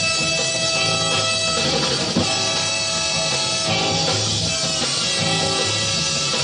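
Live soul band playing: an electric guitar takes a short break over bass and drums.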